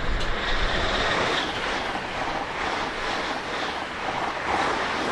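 Two coupled Class 365 electric multiple units passing non-stop at close range: a loud rushing of wheels on rail and air, with wind buffeting the microphone.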